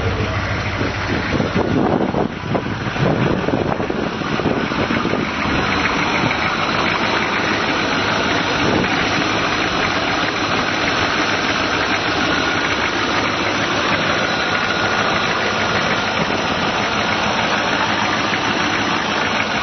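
Suburban's V8 diesel engine idling steadily at the tailpipe, running on straight vegetable oil while still warming up after a cold start.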